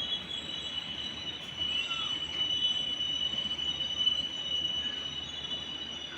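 A train running past, its steady rumble and hiss overlaid by a sustained high-pitched whine.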